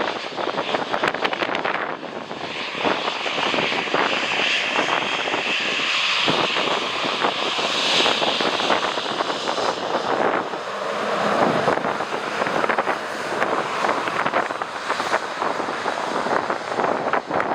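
A jet airliner's engines passing on landing approach, a steady rush with a high whine that is strongest about eight seconds in, while gusty wind buffets the microphone.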